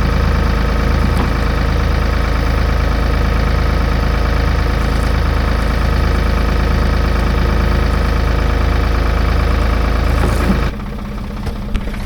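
Ford 555 backhoe's diesel engine running loud and steady at raised throttle, then dropping back toward idle about ten and a half seconds in.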